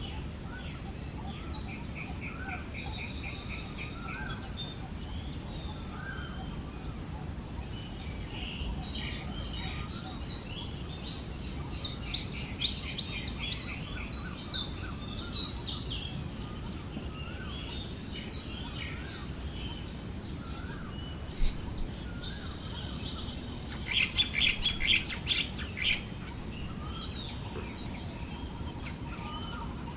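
Forest birds chirping and calling over a steady high insect drone and a low, even breeze noise, with a burst of rapid chirping near the end.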